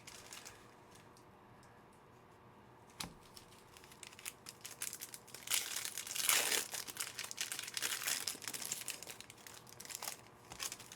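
Wrappers of Panini Certified football card packs being torn open and crinkled, with cards handled; a single click about three seconds in, then dense crackly rustling from about four seconds in, loudest a little past halfway.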